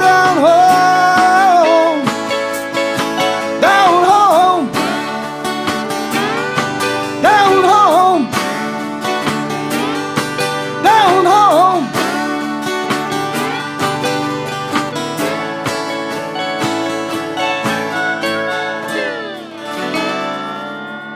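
Acoustic band ending a country-style song: the last sung note held with vibrato, then acoustic guitars and plucked strings playing the outro with bending lead notes over steady chords. A final chord rings and fades near the end.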